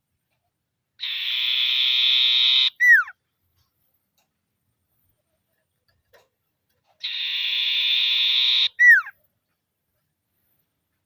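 Common iora (sirtu/cipoh) giving its trilling 'ngetir' call twice: each a buzzy rattle held for under two seconds, ending in a short, loud whistle that falls in pitch.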